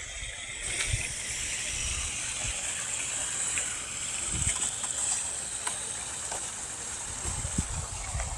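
Steady rush of running water with a high hiss, broken by a few short low bumps on the microphone.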